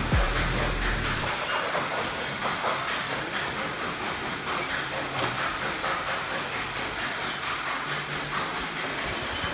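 Steady hissing noise, with a low hum under it that drops away about a second in.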